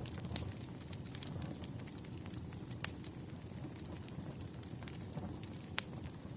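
Wood fire crackling: a steady low rumble of burning logs with scattered crackles, and two sharp pops, about three seconds in and near the end.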